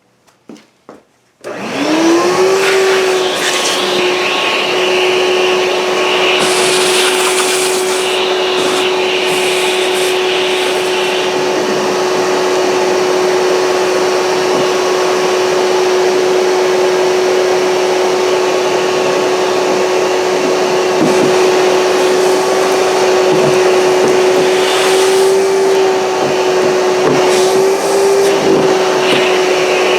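Shop vac switched on about a second and a half in, its motor whining up to speed and then running steadily with a loud rushing hiss as it sucks up shavings. The hiss surges briefly a few times.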